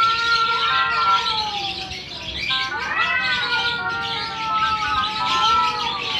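Male cats yowling: long drawn-out wails that rise, hold and slowly sag, one rising again about three seconds in. This is the caterwauling of rival tomcats squaring off.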